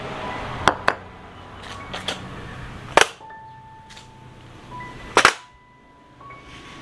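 Sharp metallic knocks: a quick pair, then two single strikes a couple of seconds apart, the later ones followed by a short ringing tone.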